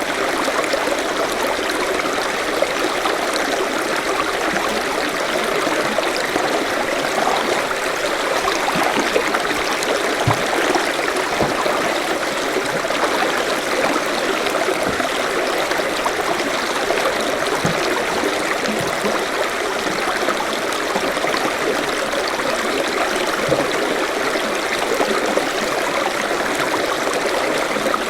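Forest stream flowing steadily over rocks, a continuous rushing and trickling with small gurgles.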